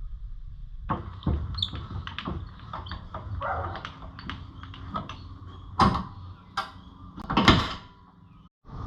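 Irregular knocks and clatters over a low background rumble, with two louder knocks in the second half.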